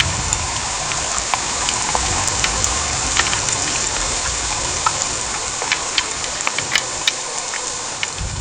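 Heavy rain falling steadily: a dense, even hiss with single drops ticking sharply here and there. A low rumble runs underneath for most of the time and fades near the end.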